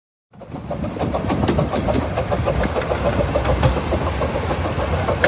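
Locomotive of a 15-inch-gauge miniature railway running, a steady mechanical rumble with many quick clicks and knocks. It starts abruptly about a third of a second in.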